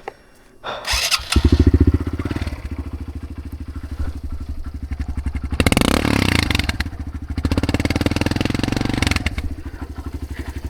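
Dirt bike engine starting and catching about a second in, then running with its exhaust pulsing steadily, rising twice to louder throttle blips before settling back to idle.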